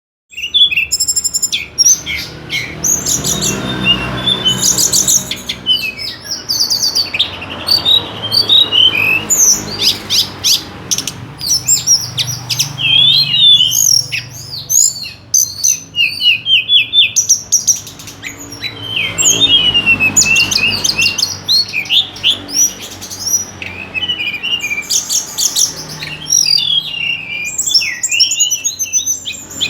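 A songbird singing a long, varied song of fast chirps, trills and rising and falling whistles with few pauses.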